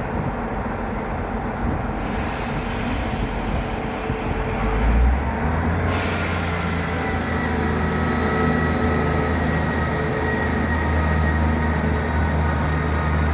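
A train at a station: steady rumble with a low droning hum that grows louder about five seconds in, and a hiss of air that starts about two seconds in and strengthens a few seconds later.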